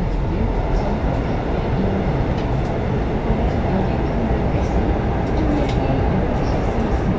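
Steady running rumble of a passenger train at speed, heard from inside the carriage, with a few faint light ticks.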